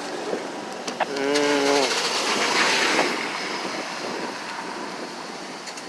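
Outdoor city street noise: a steady rush of wind and traffic that swells for about two seconds starting a second in, with a brief wavering pitched sound like a distant voice in the middle of the swell.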